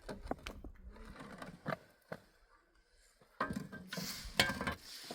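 Scattered knocks and clinks of objects being handled, then a denser stretch of clatter and rustling about two-thirds of the way in.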